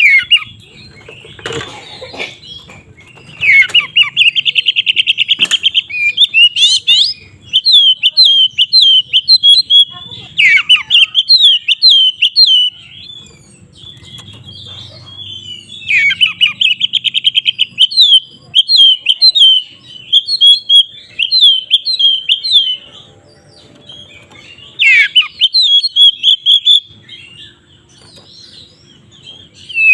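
Oriental magpie-robin (kacer) singing loudly in bursts: fast buzzy rattling trills and quick sweeping whistled notes, in phrases broken by short pauses.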